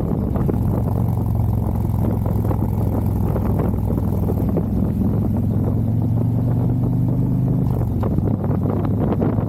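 Harley-Davidson V-twin motorcycle engine running at a steady pitch on the move, with wind rushing over the microphone. The steady engine note drops away near the end.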